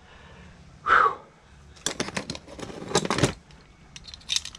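Two runs of rapid clicking and clattering of small hard parts being handled while a microwave oven is being taken apart for scrap, after a brief short sound about a second in.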